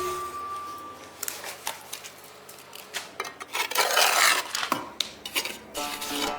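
A run of light clicks and knocks of small hard objects, with a louder scraping rush about four seconds in.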